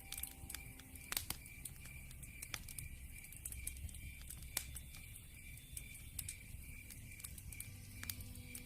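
Wood fire crackling: irregular sharp pops and snaps over a low rumble of burning logs, with an evenly pulsing high chirp throughout, like insects at night.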